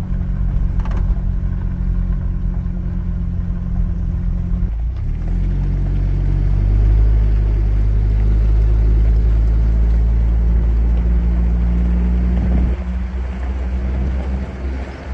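Hummer H3 driving on a dirt road: a steady low engine drone with road rumble. The engine note shifts about five seconds in and gets louder, then eases off near the end.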